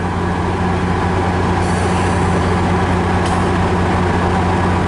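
MARC commuter train's diesel locomotive idling in the station, a steady loud low drone, with two brief faint hisses partway through.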